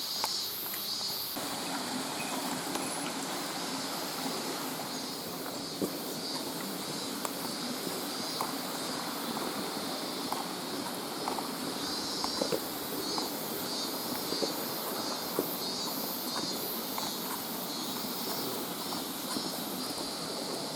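Footsteps on a mountain trail, with scattered clicks and rattles from the old camcorder's loose monitor, over a steady high buzzing background that pulses.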